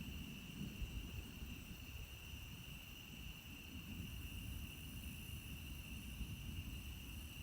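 Night chorus of frogs and insects: a continuous high-pitched trill that holds steady, over a low rumble.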